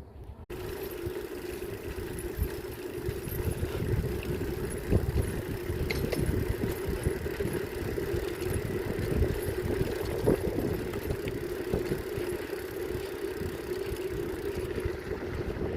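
Continuous riding noise from a bicycle on the move: tyres rolling and rumbling over the path, with a steady hum and a few small knocks and rattles. It starts abruptly about half a second in.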